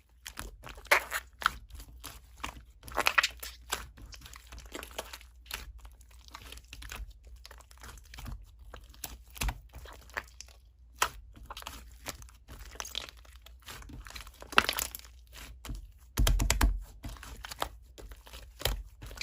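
Slime being squished and pressed by hand, giving many irregular sticky clicks and pops. A louder, heavier stretch of handling comes near the end.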